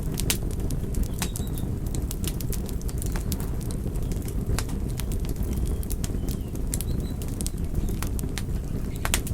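Wood fire burning: a steady low rush of flames with irregular sharp crackles and pops.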